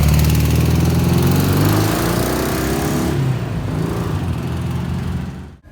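A car engine and exhaust running loudly as the car drives off, the note sinking and fading after about two seconds. The sound cuts off abruptly near the end.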